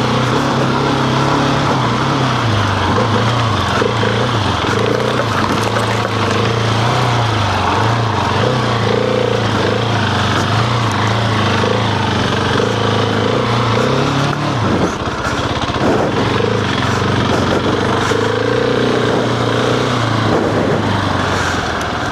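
Husqvarna 701's single-cylinder engine running as the bike is ridden off-road, its note rising and falling with the throttle, over a steady rush of wind noise. About fifteen seconds in the engine note drops briefly, then holds steadier.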